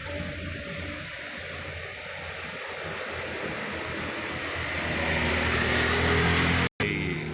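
Heavy truck's diesel engine labouring steadily up a steep grade, growing louder over the last few seconds as it comes closer. Near the end the sound breaks off for a moment, then another engine drone carries on.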